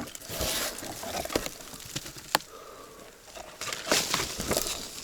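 Footsteps crunching through the forest floor, with snow and dead leaves underfoot, in two loud spells, plus one sharp snap a little over two seconds in.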